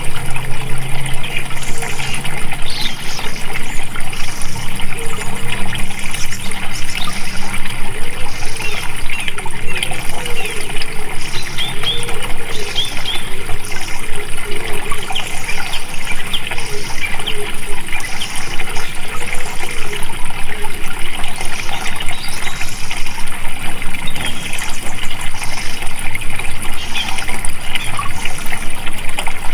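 Flowing water, gushing and trickling steadily, with many short bird chirps over it.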